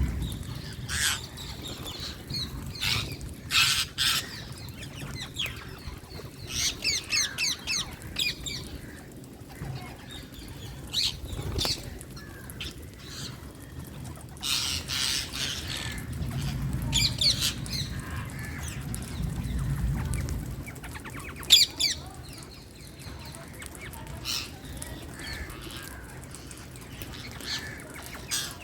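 Indian green parakeets giving harsh, screeching squawks in short repeated bursts. A single sharp knock about three-quarters of the way through, and a low rumble for a few seconds past the middle.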